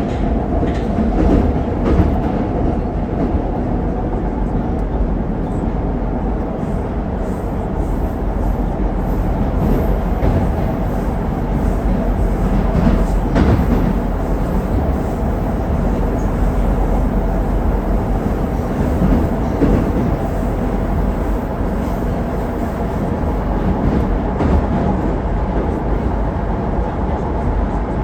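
81-761 'Oka' metro train running at speed between stations, heard from inside the car: a steady, loud rumble of wheels on rail with a few sharper knocks.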